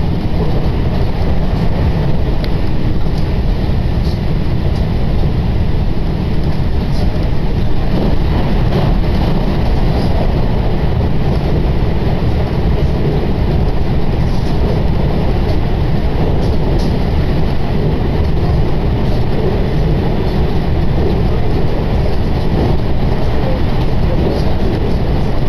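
Steady low rumble of a moving commuter train heard from inside the carriage, with wheel and running-gear noise and a few faint clicks.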